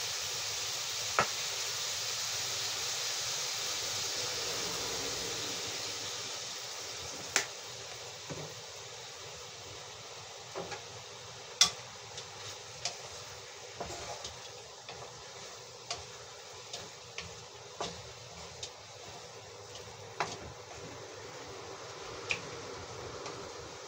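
Chicken liver and potatoes sizzling in a wok just after soy sauce is poured in. The hiss fades over the first several seconds, and a utensil then clicks and scrapes against the pan every second or so as the food is stirred.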